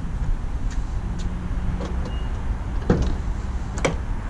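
A 2017 Nissan GT-R's twin-turbo 3.8-litre V6, with a Boostlogic catback exhaust and titanium midpipe, running with a steady low rumble while the car drives gently. A few sharp clicks come through, the loudest about three and four seconds in.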